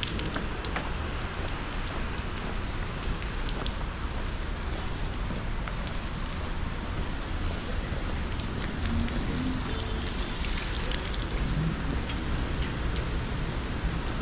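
Steady rain falling, a constant hiss full of small crackling drop ticks, with a low rumble of street traffic underneath.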